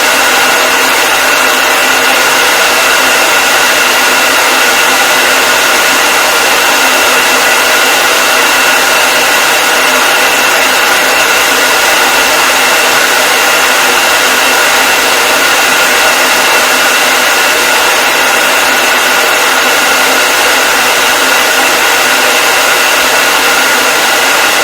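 Hair dryer running continuously at a steady speed: an even airy rush with a faint high whine from its motor and fan.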